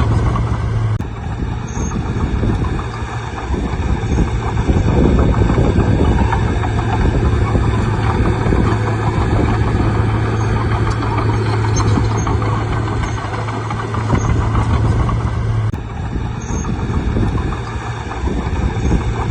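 Bulldozer's diesel engine running steadily at work, with a constant low hum under dense mechanical noise. The sound changes abruptly about a second in and again near the end.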